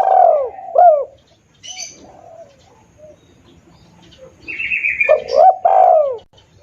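Spotted dove (tekukur) cooing as a hunting lure call: a phrase of arched, rolling coos right at the start and another about five seconds in. Short high chirps sound between the phrases.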